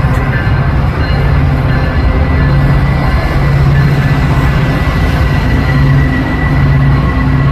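Train running, a steady heavy low rumble with a faint steady high whine above it.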